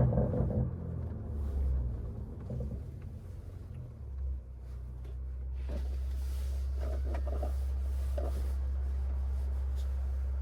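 Catless, straight-piped BMW B58 turbocharged inline-six exhaust in a 2024 540i, heard from inside the cabin as a low rumble while the car slows. About four seconds in it settles into a steady, even low drone.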